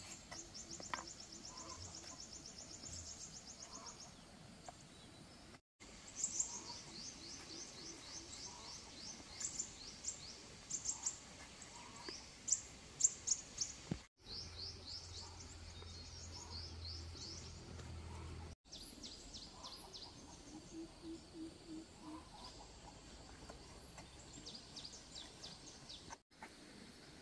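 Small birds singing in quick, high, repeated trills and chirps, with a low rural background.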